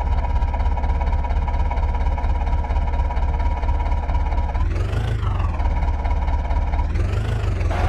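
Diesel tractor engine running steadily, with a steady high tone over it and two short tones that rise and then fall, about five and seven seconds in.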